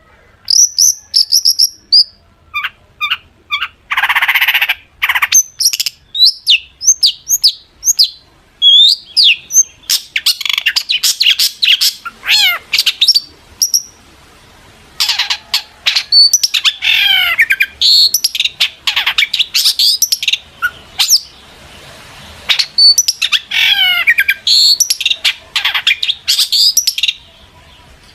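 Long-tailed shrike (cendet) singing a fast, varied song of chirps and trills in short bursts with gaps, with a harsh rasping call about four seconds in and quick runs of falling notes later on.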